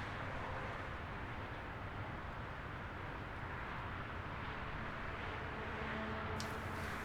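Steady road and engine noise of a moving vehicle with a low hum, and a few sharp clicks near the end.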